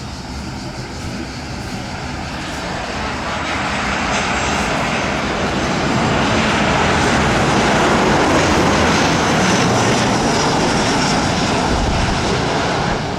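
Boeing 737-700 BBJ's CFM56 jet engines passing close by, growing louder to a peak a little past the middle and then easing slightly, with a high whine that falls in pitch.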